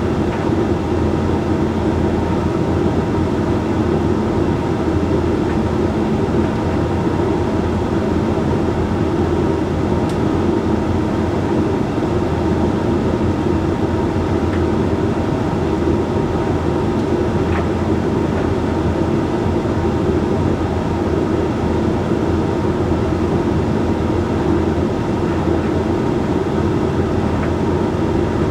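Hoover Link X Care condenser tumble dryer running steadily mid-cycle on a load of whites: an even hum from the drum motor and fan with a few held tones.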